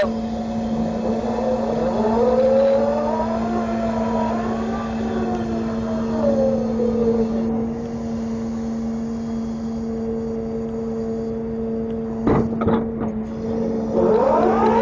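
Grapple truck's engine and hydraulics running with a steady whine, its pitch rising and falling as the load comes on and off, once through the middle and again near the end. A sharp knock about twelve seconds in.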